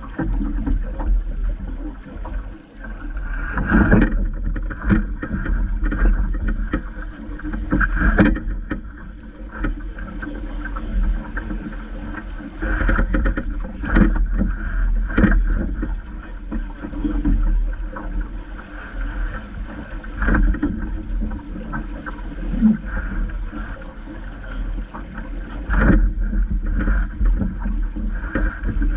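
Water slapping and splashing irregularly against a small sailing dinghy's hull, every second or two, over a steady low rumble of wind on the microphone.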